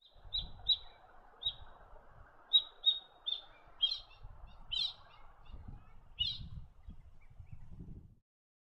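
A bird calling: a run of short, high chirps, some in quick pairs, about a dozen in all, over a faint low rumble. It cuts off abruptly near the end.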